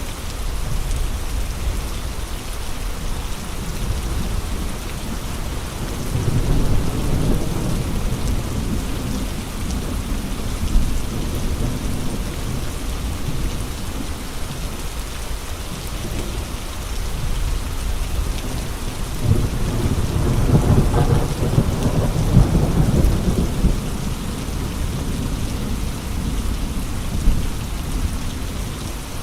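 Steady rain with gusty wind, the hiss of the rain continuous throughout. Two long low rumbling surges rise and fade, one about six seconds in and a larger one around twenty seconds in.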